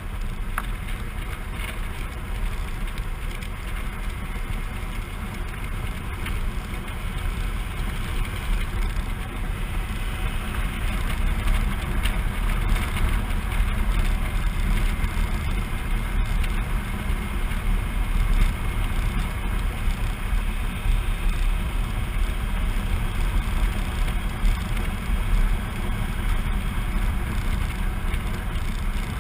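Suzuki V-Strom 650 V-twin motorcycle under way, a steady rush of wind and road noise over the engine, growing a little louder about a third of the way through.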